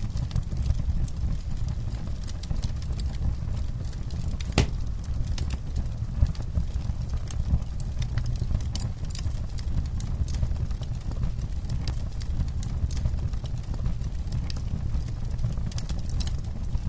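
Campfire crackling: frequent sharp pops and snaps over a steady low rumble, with one louder crack about four and a half seconds in.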